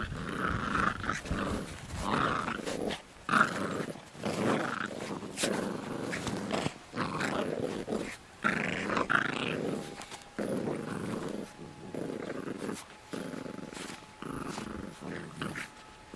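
Pit bull puppies growling in play while tugging over a tennis ball, in uneven bursts.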